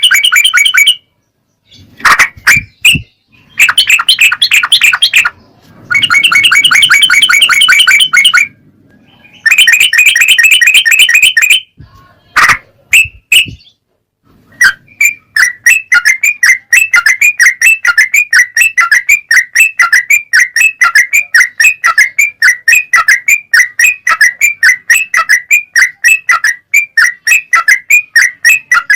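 Yellow-vented bulbul (trucukan) song from a training recording: several loud bursts of rapid chattering, each a second or two long with short gaps between, then from about halfway a long run of short repeated whistled notes, about three or four a second.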